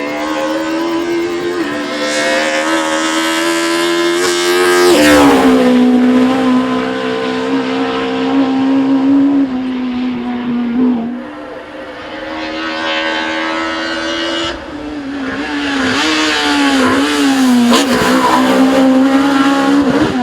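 Race car engine at full throttle on a hill climb, its pitch climbing under acceleration and dropping at gear changes about 5 seconds and 11 seconds in, then rising and wavering again.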